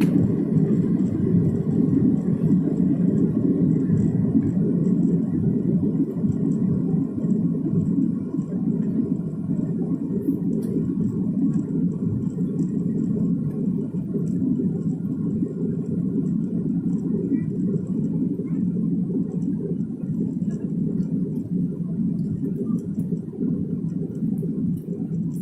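Airliner cabin noise during landing: a steady low rumble that slowly fades.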